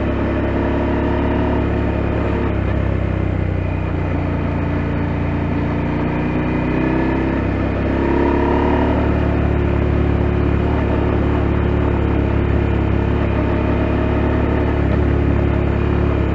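2022 KTM 890 Adventure's parallel-twin engine running under way, its note easing off about two-thirds of the way through the first half and then rising again a little louder as the throttle comes back on.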